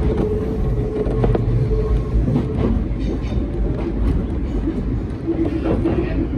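Hakone Tozan Railway train running, heard from on board: a steady low rumble with a held low hum, and a few clicks of the wheels over the rails.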